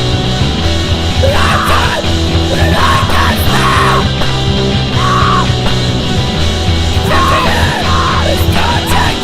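Loud hardcore punk music: distorted guitars, bass and drums with a screamed vocal coming in and out in short shouted phrases.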